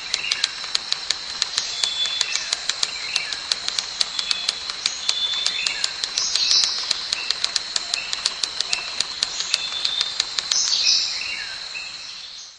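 Wildlife ambience of birds chirping over a steady high-pitched buzz and quick, irregular clicking, fading out near the end.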